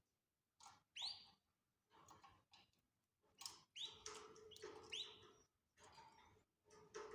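Canaries calling: a few short chirps that sweep sharply up in pitch, among soft scratchy sounds.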